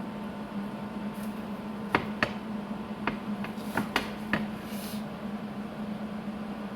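A handful of sharp metal taps or clicks, six in about two and a half seconds starting around two seconds in, over a steady low hum of shop equipment during tack-welding work on a steel bumper.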